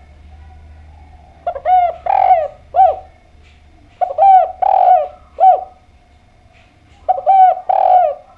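Spotted dove (derkuku/tekukur) cooing: three phrases, each a quick run of about four coos, repeated roughly every three seconds.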